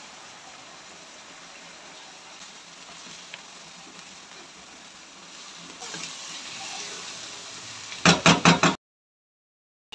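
Chicken and ginger-garlic paste sizzling in hot oil in a wok, a steady frying hiss with stirring that grows a little louder past the middle. Just after eight seconds the wooden spatula knocks against the pan about six times in quick succession, loud, and then the sound cuts off.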